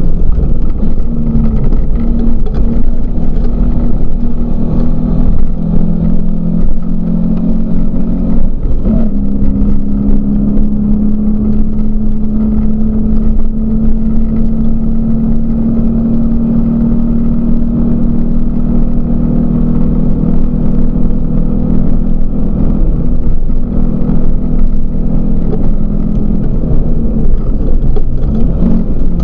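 Volvo 244 rally car's engine running hard, heard loud from inside the cabin while driving fast on a gravel stage, with gravel and road noise underneath. Its pitch steps up and down several times in the first nine seconds, holds steady for about ten seconds, then shifts again near the end.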